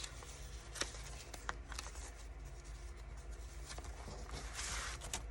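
Paper and journal pages being handled: a few light taps and a soft rustle of paper near the end, over a low steady hum.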